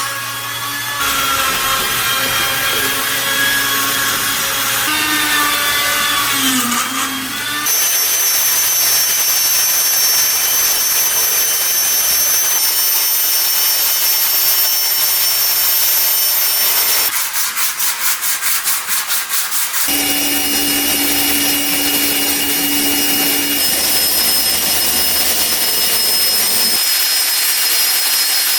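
Abrasive rubbing and grinding on the antique grinder's parts, in several abruptly joined stretches. Near the middle there is a short run of quick, even strokes, about five a second.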